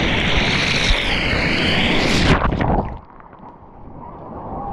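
Wind rushing and buffeting the microphone over a steady roar. It drops off sharply about two and a half seconds in, then slowly builds again.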